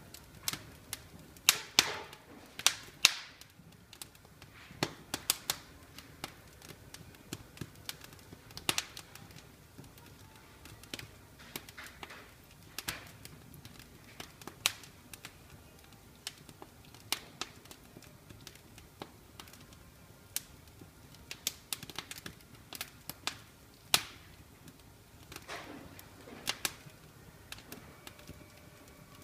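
Wood fire burning in an open fireplace, crackling and popping at irregular intervals over a low steady hiss, with a few louder sharp pops.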